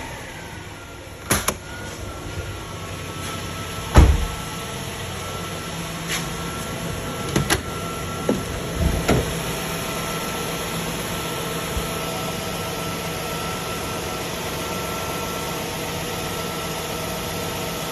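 Toyota Century engine idling steadily just after a cold start, with a thin whine that drops in pitch over the first second or two and then holds. Several sharp knocks sound over it, the loudest about four seconds in.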